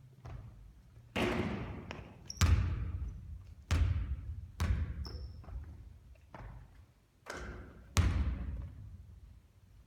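A basketball bouncing on a hard court floor: about six loud separate impacts, each trailing off in echo, with a pause of a second or two in the middle.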